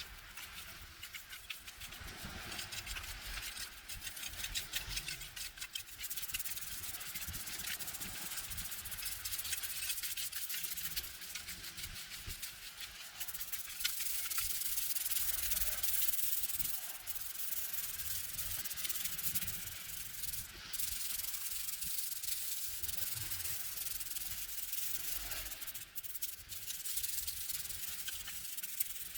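Continuous scrubbing of a surface: a rasping rub that runs steadily, with quick close-spaced strokes in the first few seconds.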